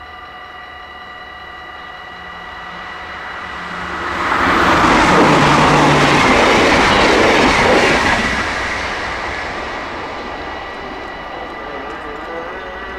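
A train passing over a level crossing: its rumble and rail noise swell over the first few seconds, are loudest for about four seconds, then fade. The crossing's warning bells ring steadily underneath.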